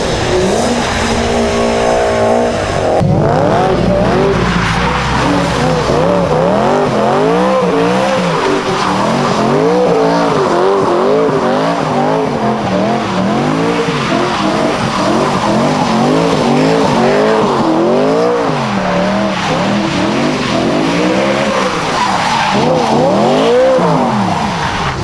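A car being driven hard, its engine revving up and down over and over while the tyres squeal, as in donuts or a burnout. The engine holds a steady pitch for the first few seconds before the repeated rises and falls begin.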